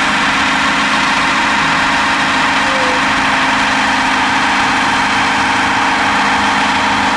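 BMW engine held at steady revs with its oiled rear wheels spinning in a burnout. The engine runs loud and constant, with no change in pitch.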